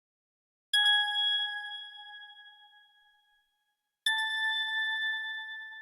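Two struck chime tones, one about a second in and one about four seconds in, the second slightly higher. Each rings out and fades away over two to three seconds.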